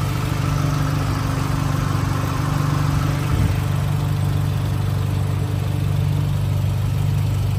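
Volkswagen Golf 7 R's turbocharged 2.0-litre four-cylinder engine idling steadily, and sounding good.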